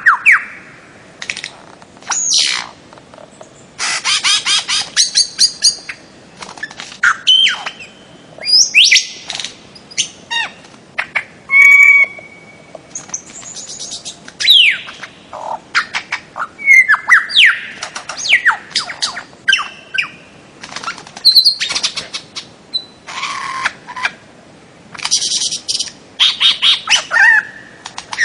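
Bird-of-paradise calling in loud bursts of sharp, repeated notes, many of them falling in pitch, with short pauses between the bursts.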